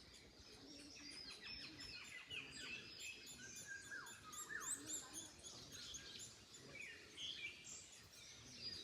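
Several wild birds singing and chirping together, with many short high chirps and a few downward-sliding whistles, over a faint background hiss.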